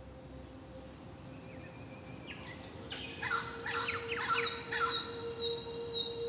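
Birds chirping and calling, with a burst of several overlapping chirps and falling whistles starting about halfway in. Near the end one bird repeats a short high falling note about twice a second, all over a steady low tone.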